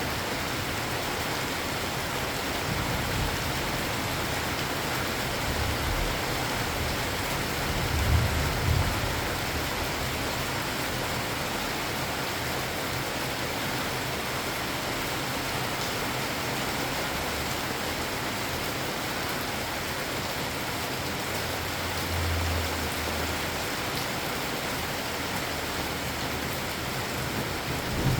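Steady rain falling, with a few short low rumbles of distant thunder, the loudest about eight seconds in.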